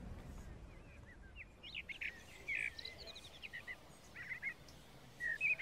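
Small birds chirping in short, quick calls, starting about a second and a half in, over a faint background hush.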